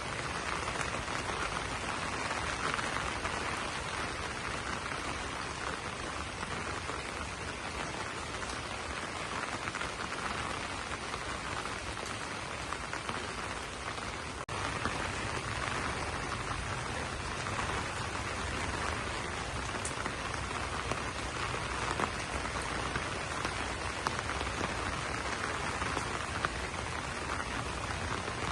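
Steady rain falling on banana leaves: an even hiss of drops with a few sharper individual drop impacts.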